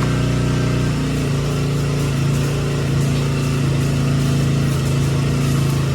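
Car engine running steadily, a low, even hum that shifts slightly in pitch about a second in.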